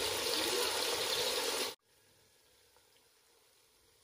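Chopped tomatoes, onions and fresh peppers frying in hot oil in a pot, a dense steady sizzle as the tomatoes cook down dry. It cuts off abruptly a little under two seconds in, leaving near silence.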